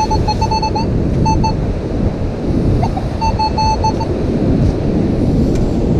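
Metal detector beeping in quick runs of short pulses at one steady pitch while it sits over a buried target: a run of beeps, a short burst, then another run about three seconds in. Heavy wind on the microphone and surf run under it throughout.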